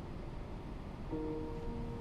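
Soft background score of slow, held piano or keyboard notes over a low steady hum; the notes fall away at first and a new chord comes in about a second in.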